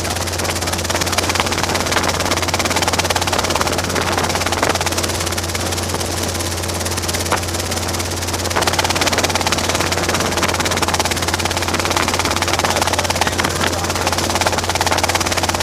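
Robinson R22 helicopter running, a steady drone of its rotor and piston engine.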